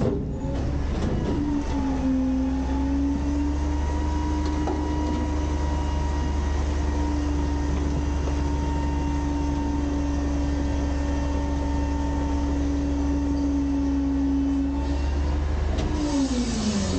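Garbage truck's engine-driven hydraulic packer running as the packer blade cycles: a steady mechanical hum with a constant tone. Near the end the pitch dips and comes back up as the load changes.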